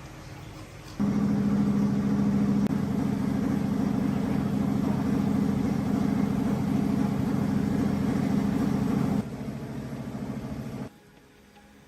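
A motor running at a steady pitch. It starts abruptly about a second in, drops to a lower level a little after 9 seconds and cuts off about two seconds later.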